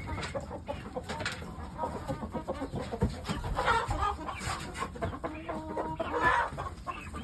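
Shamo chickens clucking, short calls scattered irregularly, with a few light knocks.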